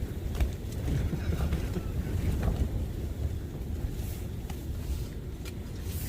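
Strong gusting wind, a low rumble that rises and falls, with a few light clicks scattered through it.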